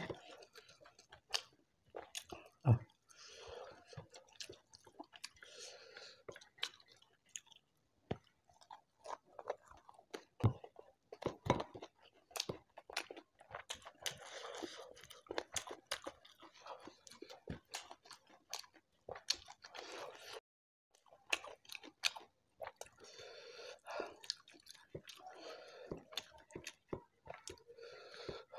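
Chewing a mouthful of rice and udang balado (shrimp in chilli sauce), with many short wet clicks and crunches and a brief pause partway through.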